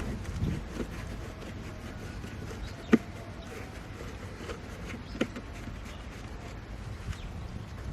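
A few short, sharp clicks or taps, the loudest about three seconds in and another just after five seconds, over a low steady hum.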